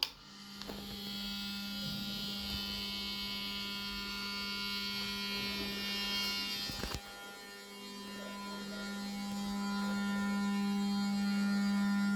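Ceiling fan's motor humming and buzzing loudly with a steady electrical tone. It starts with a click, another click comes about seven seconds in, and the hum grows louder toward the end.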